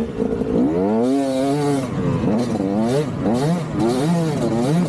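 KTM 200 single-cylinder two-stroke dirt bike engine being ridden on a woods trail, the revs climbing in one long pull about a second in, then rising and dropping quickly again and again as the throttle is worked.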